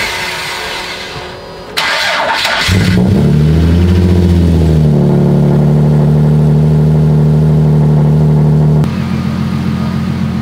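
Car engine starting: a short burst of cranking, then the engine catches, wavers for a couple of seconds and settles into a steady idle.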